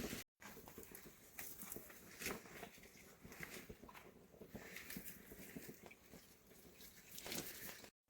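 Faint, irregular light taps and clicks over a quiet hiss, with a brief dropout to silence just after the start and again near the end.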